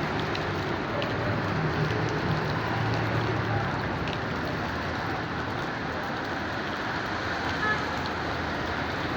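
Heavy rain falling steadily, an even hiss of drops hitting the ground, with a low rumble in the first few seconds.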